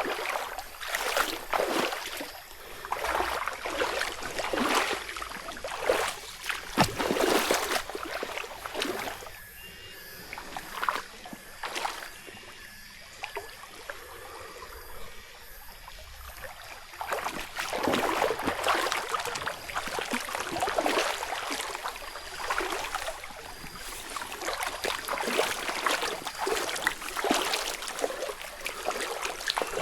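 Footsteps crunching through forest-floor leaf litter, a step about every half second, going quieter for several seconds in the middle before picking up again.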